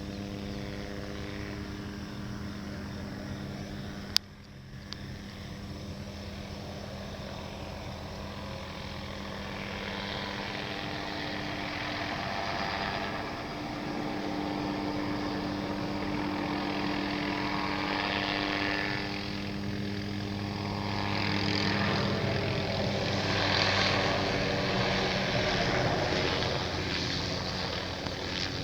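Hughes 500D helicopter flying: its rotor and Allison 250 turboshaft give a steady droning hum with a rushing wash on top, growing louder toward the end. A single sharp click about four seconds in.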